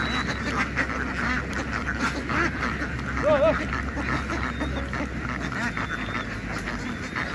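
A large flock of domestic ducks quacking, a dense overlapping din of many calls, with one louder call about three seconds in.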